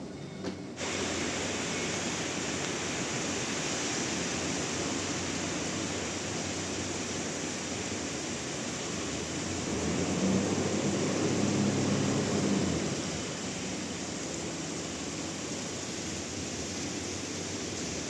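Bandsaw mill running, a steady rushing noise that starts suddenly about a second in. It grows louder, with a low hum, from about ten to thirteen seconds in.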